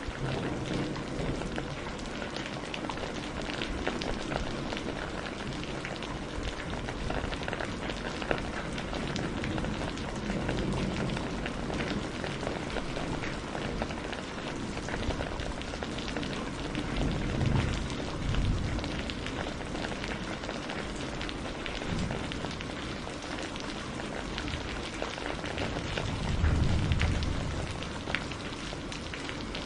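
Steady rain falling, a dense patter of drops hitting a surface. Low rumbles swell up twice, near the middle and again near the end.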